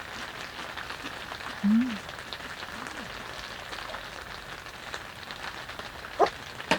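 Heavy rain falling steadily, with many fine drop ticks. A short low voiced sound comes about two seconds in, and two sharp clicks come near the end.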